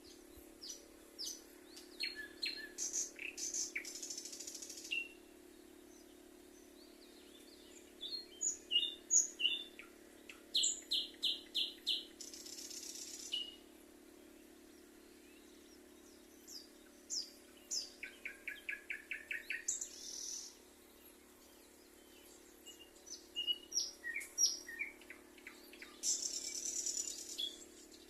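Songbirds singing in bursts of quick chirps and trills, four song phrases a few seconds long with short pauses between them.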